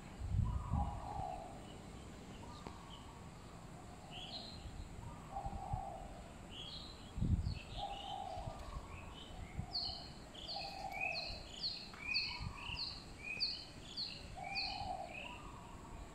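Birds calling: a low call repeating every second or two, joined from about four seconds in by a series of quick high chirps that are busiest in the second half. A few low bumps come near the start and at about seven seconds.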